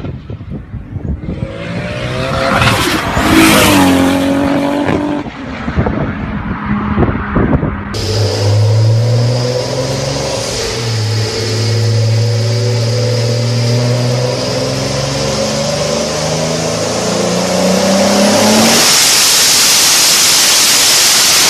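Toyota Supra's turbocharged engine and exhaust: a rev that rises and falls with sharp crackles, then, after a cut, a steady engine note climbing slowly in pitch under acceleration, with a loud rushing noise over the last few seconds.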